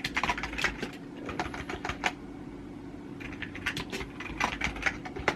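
Irregular runs of rapid light clicks, pausing for about a second midway, over a steady low hum.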